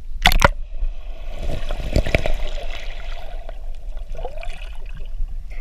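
Water splashing and running, with a sharp hit just after the start followed by a couple of seconds of sloshing and trickling.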